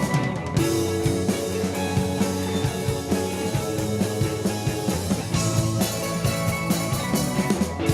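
Alternative rock band playing guitar-led rock with drums keeping a steady beat, without vocals.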